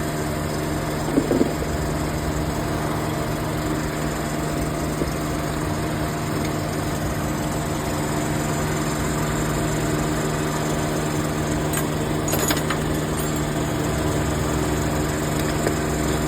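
Old car engine idling steadily, with a couple of brief knocks about a second in and again past the middle.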